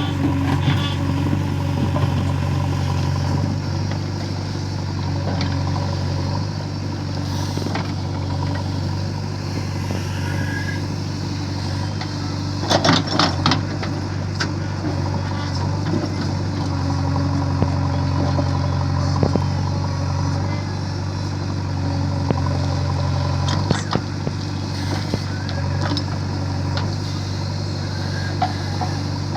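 JCB 3DX backhoe loader's diesel engine running steadily, with a short cluster of sharp knocks about halfway through.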